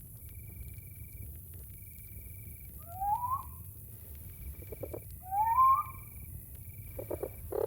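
Cricket trilling in regular pulses about a second long, repeating every second and a half, while an animal gives a short rising call twice, about three seconds in and again near the middle, over a low steady rumble.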